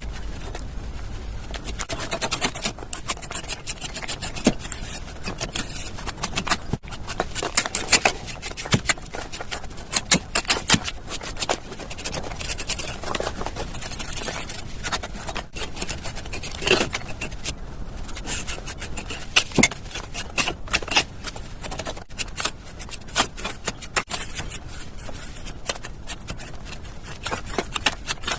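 Hand tools scraping and tapping while working cement: a dense, irregular run of short scrapes and clicks.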